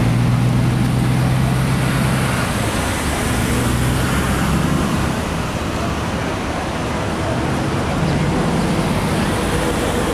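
A vehicle engine running steadily, its low hum strongest for the first few seconds and coming back more faintly near the end, over general street noise.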